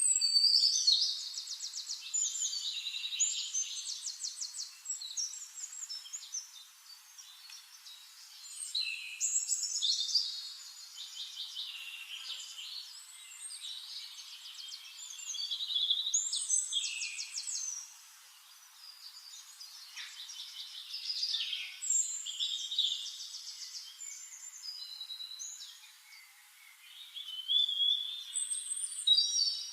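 A songbird singing long, high-pitched, varied songs full of rapid trills, a new song starting every several seconds.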